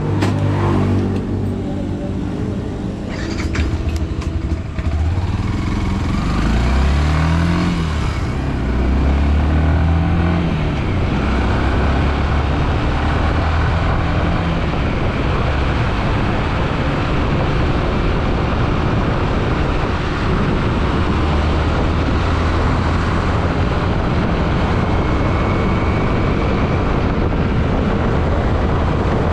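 Yamaha WR155R's single-cylinder four-stroke engine pulling away and revving up through the gears, its pitch climbing twice between about six and ten seconds in, then running steadily at riding speed under a constant rushing noise.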